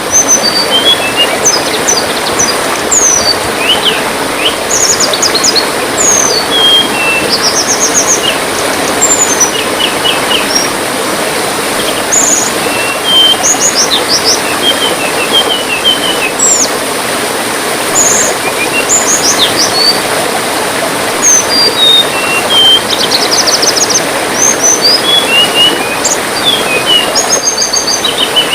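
Tledean birds calling in quick high chirps, short trills and rising whistles, repeated throughout, over the steady trickle of running water.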